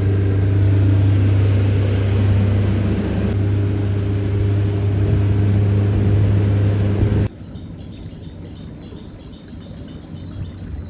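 Boat engine running steadily at low speed with a deep, even hum. About seven seconds in it cuts off suddenly, leaving a quieter background with a high chirp repeating evenly several times a second.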